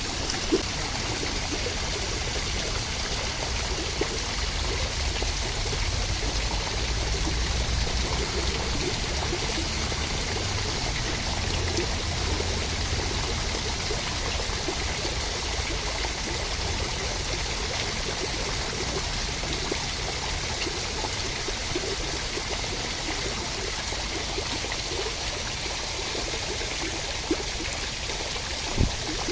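Steady rushing water, an even hiss over a low rumble, with a few faint ticks now and then.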